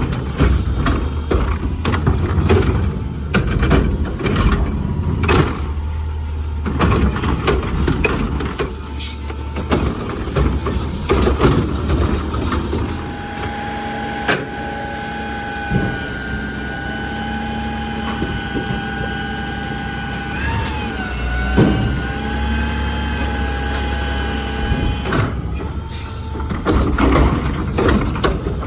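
Garbage truck at work: its diesel engine runs under repeated clanks and knocks. About halfway through, a steady high whine comes in and holds for around ten seconds, dipping briefly in pitch once, before more clanking near the end.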